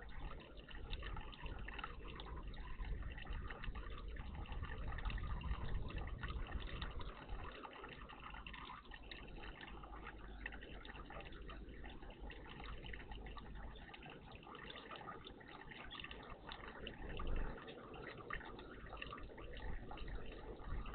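Water trickling and splashing steadily in a garden bird bath.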